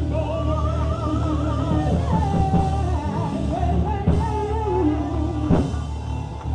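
Gospel singing: a solo voice drawing out a wavering, ornamented melody over a backing band with a steady bass line. Sharp drum hits fall about four seconds in and again a second and a half later.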